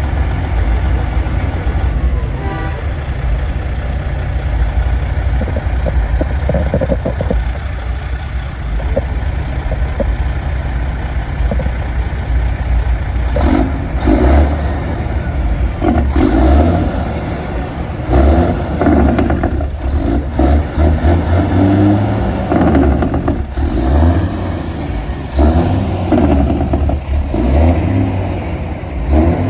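Truck engine rumbling steadily, with an uneven clattering, revving texture from about halfway through.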